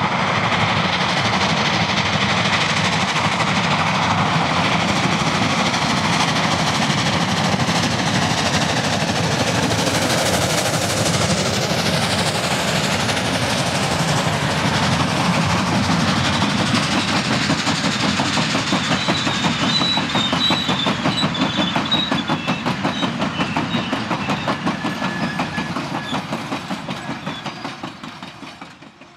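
Steam-hauled passenger train of Pullman cars running past at speed, its wheels rumbling and clattering steadily over the rails. The sound fades away over the last few seconds.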